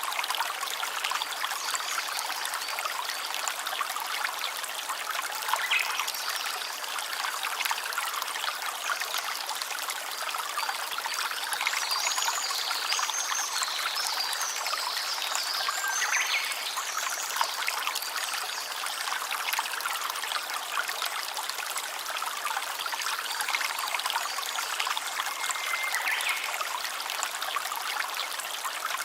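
Small stream running and trickling over stones, a steady even rush of water. A few brief high chirps sound over it around the middle.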